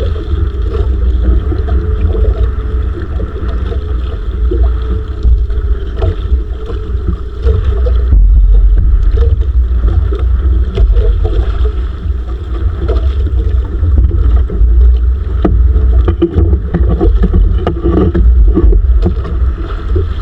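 Heavy wind rumble buffeting the microphone aboard a small wooden outrigger fishing boat at sea, with a steady noisy wash of wind and water over it.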